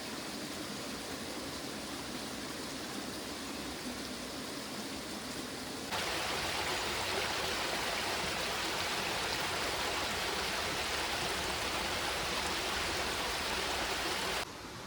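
A small stream running, an even rush of water. It jumps abruptly louder about six seconds in and drops off suddenly just before the end.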